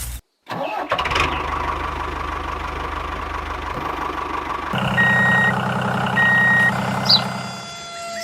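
A small engine starts about half a second in and runs steadily with an even low pulsing. A little past halfway it shifts to a louder, deeper running note, then fades near the end. Two short high tones and a bird chirp are heard in the second half.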